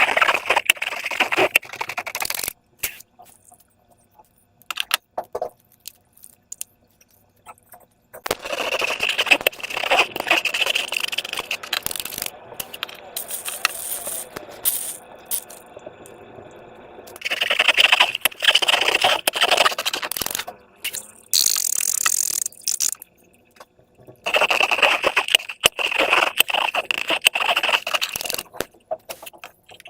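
Slime being worked by hand with balloons: spells of dense small crackling clicks and scraping, each lasting a few seconds, four times with short quiet gaps between.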